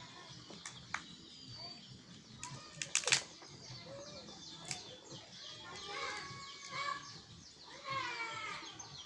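Birds chirping repeatedly in short, high, falling calls, with a few sharp clicks about three seconds in.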